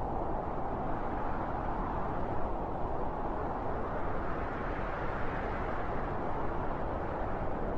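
Strong wind blowing in a steady rush, swelling slightly about halfway through.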